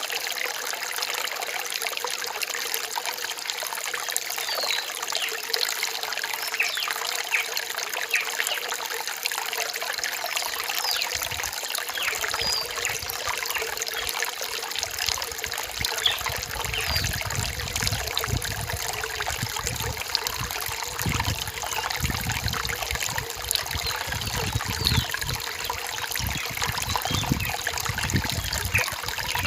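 Rainforest stream trickling steadily over rocks, with a low, uneven rumble joining in a little over a third of the way through.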